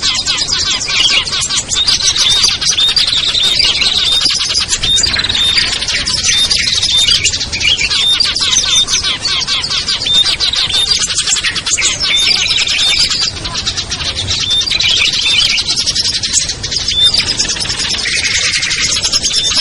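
Dense chorus of many small songbirds chirping and trilling at once, with no gaps: a noisy mixed bird-lure recording of the kind played to draw wild small birds such as prinias and bulbuls down.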